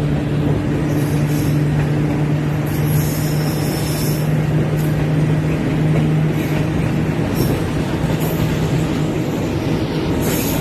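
Passenger train running along a curve, heard from an open coach window: a steady rumble of wheels on rail over a steady low drone, with brief high wheel squeals now and then.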